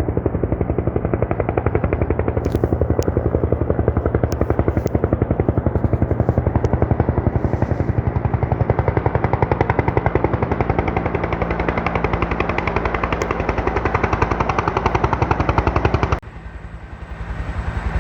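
Helicopter rotor beating loudly, a fast, even chop over a low engine drone. It drops away sharply near the end.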